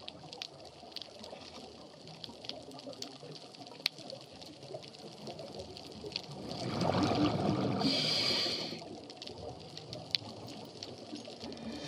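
Underwater sound on a scuba dive: a faint hiss with scattered sharp clicks and crackle, then, about six and a half seconds in, a louder gush of exhaled air bubbles from a diver's regulator lasting about two seconds.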